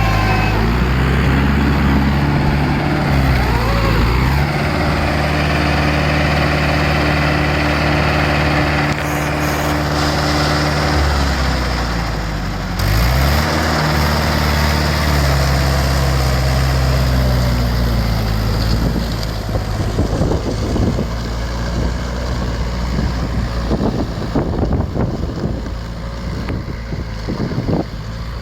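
Trakstar 545 tractor's diesel engine working in a field. Its steady note sags and picks back up twice, early on and near the middle, as the load comes on. In the last third the engine note is less steady, with irregular thumps over it.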